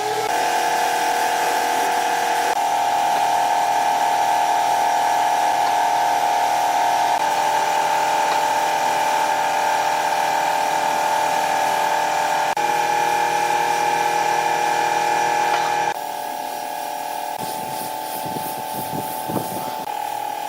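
Electric power tool motor running with a steady high whine, its tone shifting slightly a few times and dropping in level about two-thirds of the way through.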